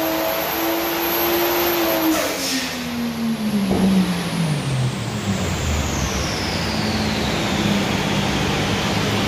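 Toyota 1JZ-GTE VVTi turbocharged inline-six on a chassis dyno, held at high revs, then let off about two seconds in with a short hiss. The engine note falls steadily as the revs drop and settles low, while a high whine slides slowly down in pitch as the wheels and dyno rollers spin down.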